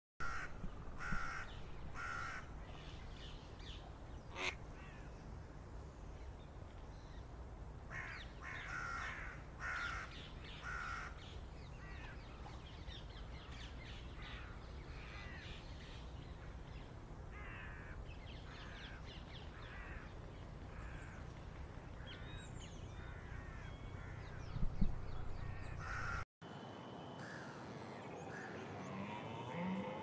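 Birds calling in short, repeated bursts, with pauses between clusters, over a steady low background. Near the end a red deer stag begins a deep rutting roar.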